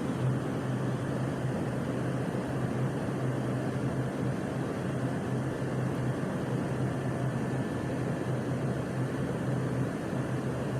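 Steady low mechanical hum with an even drone underneath and no banging or impacts.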